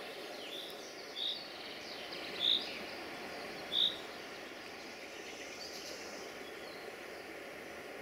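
Woodland birdsong: a bird gives short, clear high notes about a second apart, three of them louder in the first four seconds, with fainter chirps around them, over a steady background rush.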